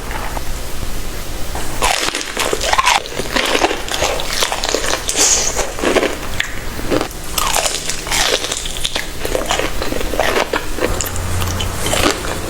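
Crunchy bites and chewing of crisp food, many separate crunches one after another.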